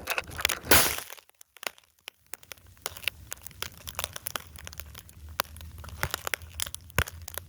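Irregular sharp crackling and crunching clicks, with a loud rushing burst about half a second in.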